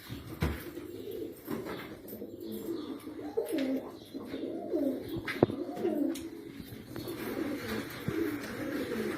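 Pigeons cooing: a run of low, swooping coos, with a few sharp clicks, one loud one about halfway through.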